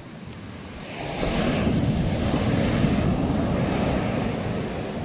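Ocean surf: a wave breaks and washes up the shore, swelling about a second in and fading away near the end.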